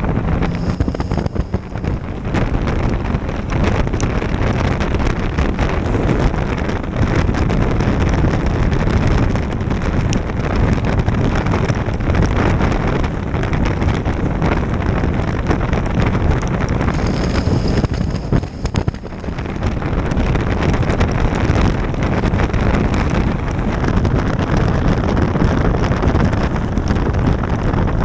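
Wind buffeting the microphone on a moving motorcycle, mixed with the bike's engine and road noise, loud and steady throughout.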